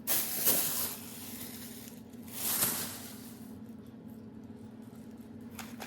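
Bags and packaging rustling as purchases are handled, in two short bursts: one at the start and one about two and a half seconds in, with a faint steady hum underneath.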